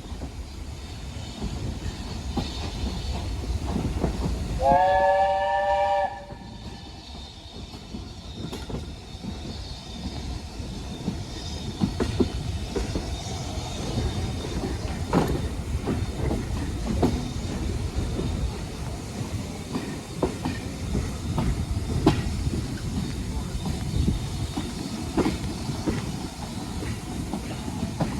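Steam train running past with a low rumble. About five seconds in, the locomotive's whistle sounds once for a second and a half, several tones together, rising slightly in pitch as it opens. For the rest of the time the wheels knock and click over the rail joints.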